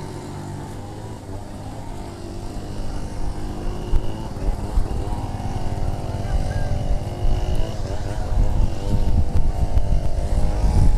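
An engine running steadily, its pitch wavering slightly, getting louder over the second half.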